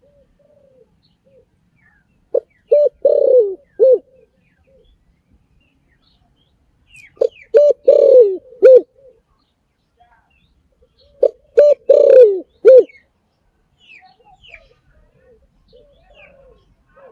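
A spotted dove cooing. Three phrases of short low coos, each with a longer falling note in the middle, come about every four to five seconds, with faint softer notes in the gaps.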